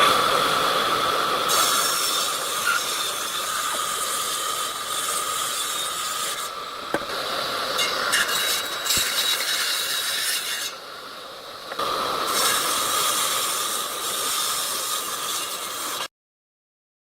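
A machine running, with a steady whine over a rasping noise that dips for about a second near the end, then cuts off suddenly.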